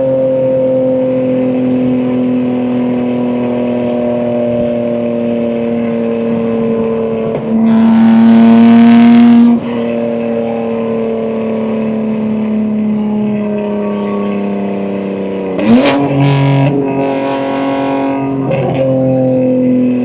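BMW M2 G87's S58 twin-turbo straight-six, with catless downpipes and an equal-length mid pipe, cruising with its exhaust note slowly sinking. About eight seconds in, a burst of throttle makes it much louder for about two seconds before it settles back. Near the end come two quick rev swings.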